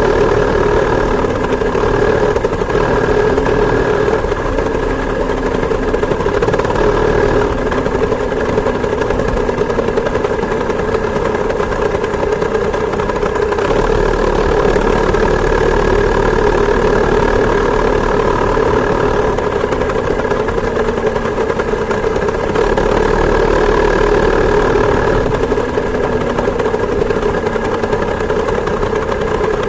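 Two-stroke chainsaw engine on a home-built moped running steadily at an even speed, heard close up from a phone mounted on the handlebar.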